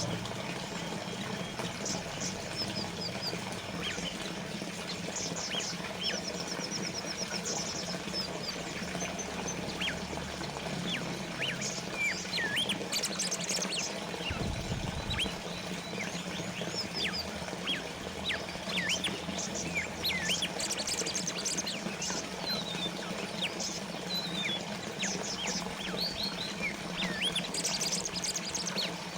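Small water fountain trickling steadily, with many small birds chirping and twittering over it in short calls and quick high trills.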